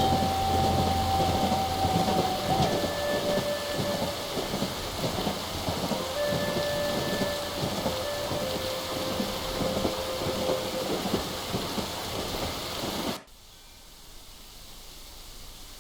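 Recorded rain-and-thunder ambience: a steady, crackly rain hiss with rumble, with a few long held tones in the first half. It cuts off suddenly about thirteen seconds in, leaving only a faint hiss.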